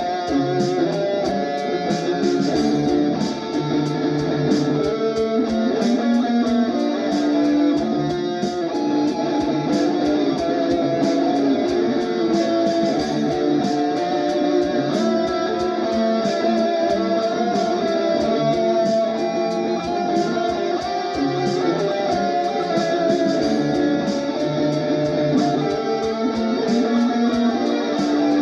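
Electric guitar played through a Valeton GP-200 multi-effects processor, improvising busy melodic lines over a steady drum-machine beat.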